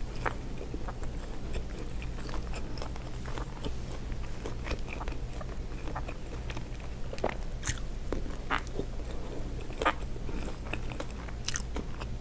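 Close-miked eating of a seafood boil: chewing and biting with scattered small cracks and clicks, over a steady low hum.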